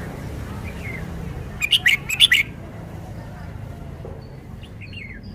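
Red-whiskered bulbul singing: a loud burst of five or six short, sharp notes about two seconds in, then a few faint notes near the end, over a steady low rumble.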